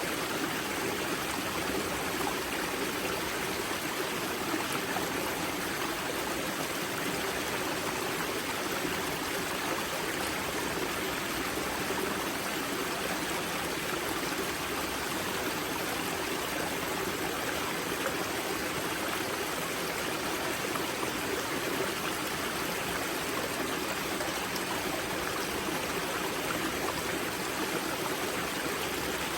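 Spring water of the river Grza running at its wellhead: a steady, even rush of flowing water.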